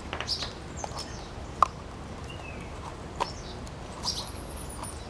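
Small birds chirping faintly now and then, with a few sharp taps, the loudest about a second and a half in.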